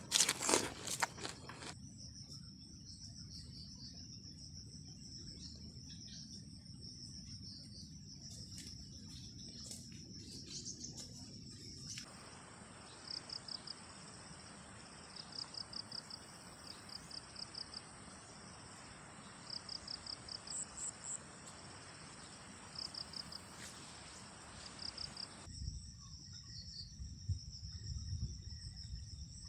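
Insects chirring in a steady high-pitched drone, with runs of short pulsed chirps repeating every second or two, over a low outdoor rumble. A few clicks and crunches sound in the first second.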